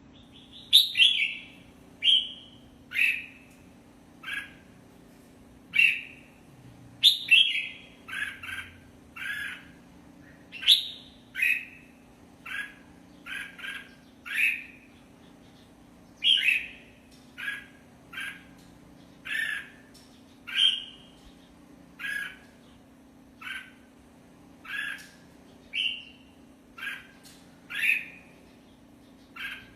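Red-whiskered bulbul singing a string of short, loud whistled phrases, about one a second and many dropping in pitch, in the chào mào contest song. A low steady hum runs beneath.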